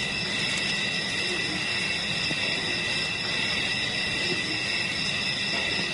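Steady, high-pitched chorus of insects in the bush, unbroken throughout.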